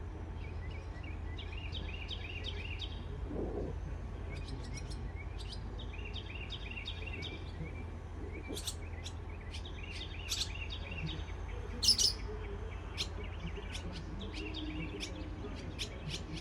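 Small birds chirping in quick runs of short high notes, with one louder, sharper call about twelve seconds in, over a steady low hum.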